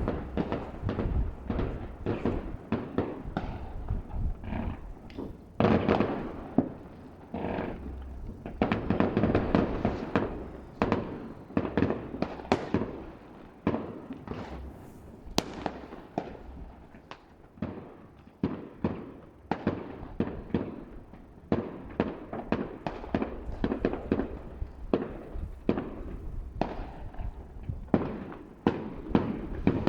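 New Year's Eve fireworks going off in a continuous barrage heard from a distance: many irregular bangs and crackles, with longer rumbling stretches where several go off together.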